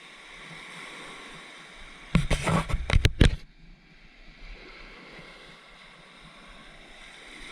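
Steady wash of surf on a beach. About two seconds in, a loud rumbling burst on the microphone lasts about a second before the surf hiss returns.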